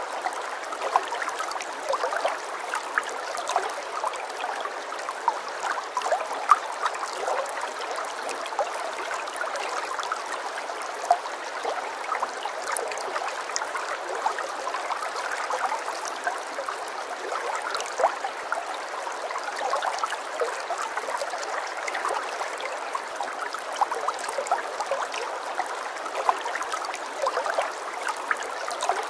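Running water, a shallow stream trickling and gurgling, steady throughout with many small splashing pops and no deep rush.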